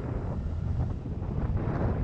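Wind buffeting an action camera's microphone on a moving scooter: a heavy, uneven low rumble with gusty surges.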